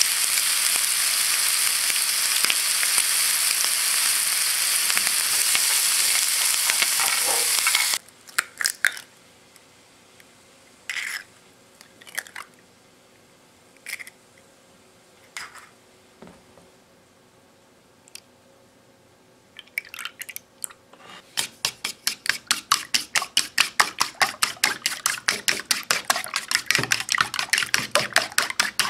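Bacon, onion and spinach sizzling as they fry in a pan; the sizzle stops abruptly about eight seconds in. Eggs are then cracked into a ceramic bowl with a few separate sharp taps. From about twenty seconds in, chopsticks beat the eggs against the bowl in fast, even clicking.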